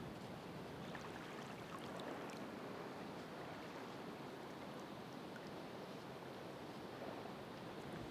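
Ocean surf washing steadily on the shore, an even rushing wash with a few faint scattered ticks.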